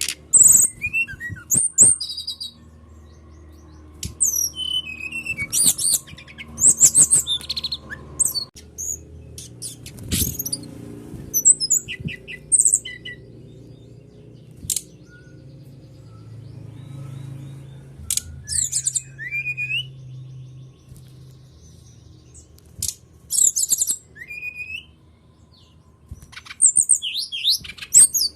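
Songbird singing in quick clusters of high, sharp chirps and short gliding whistles, with brief pauses between phrases, over a faint low hum.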